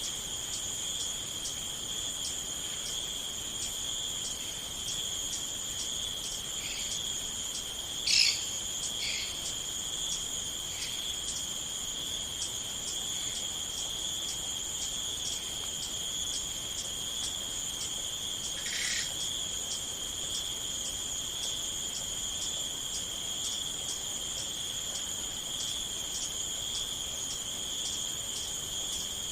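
Crickets trilling steadily and high-pitched, with a faint regular pulse about twice a second. A few short chirps come through, the loudest about eight seconds in and another a little past the middle.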